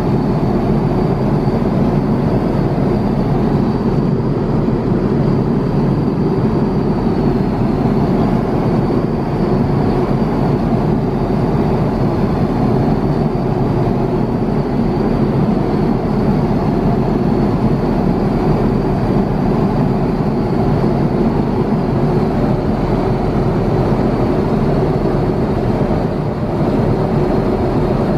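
Steady in-flight cabin noise of an Airbus A350-900: a constant rushing of airflow and engines, with a faint steady high whine above it.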